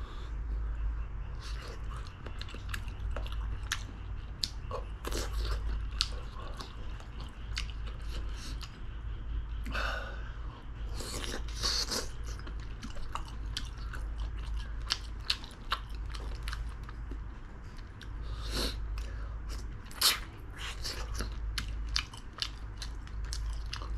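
A person chewing and biting into spicy braised chicken (dakbokkeumtang), with many short, irregular mouth clicks.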